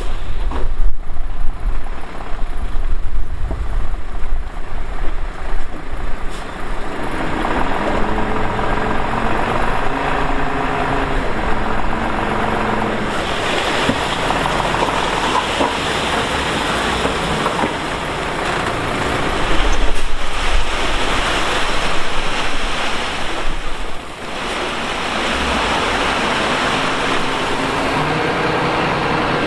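Diesel engines of heavy earthmoving machinery running and working, the engine note rising and falling. The sound surges unevenly at first, then runs steadier, and drops sharply in level near the end.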